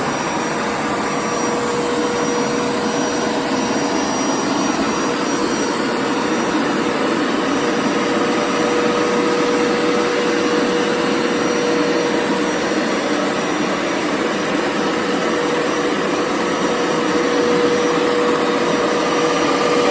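Hoover TurboScrub 50 carpet cleaner running steadily, its suction motor drawing water back up from the carpet with a constant whining tone over a steady rush of air.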